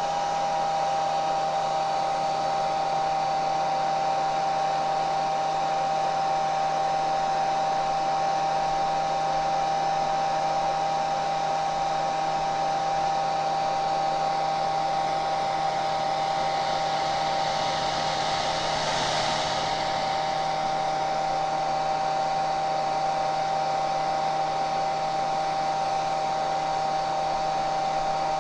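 Hair dryer running steadily: the rush of blown air with a constant high motor whine. Partway through, the hiss swells briefly and then settles back.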